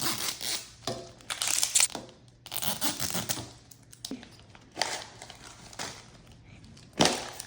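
Plastic wrapping being torn and crinkled as Mini Brands capsule balls are unwrapped, in several rustling bursts, with a sharp click near the end.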